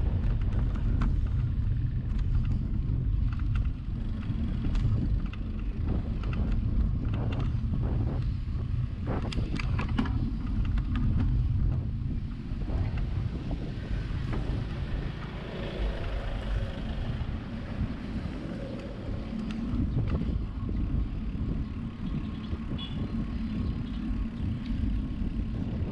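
Wind rumbling on the microphone of a camera riding along on a bicycle, with road and traffic noise and a few short clicks about a third of the way in.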